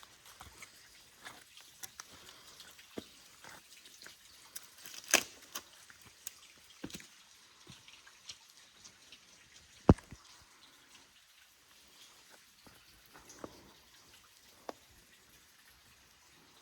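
Footsteps on rocky, leaf-littered ground: irregular sharp clicks and knocks, two much louder knocks about five and ten seconds in, over faint background hiss.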